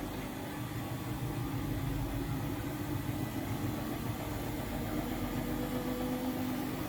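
Siemens Siwamat IQ 716 washing machine running mid-cycle: a steady motor hum as the drum turns.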